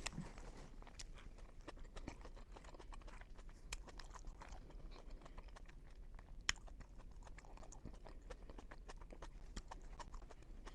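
A person chewing a mouthful of pizza, with faint irregular mouth clicks and smacks and one sharper click about six and a half seconds in.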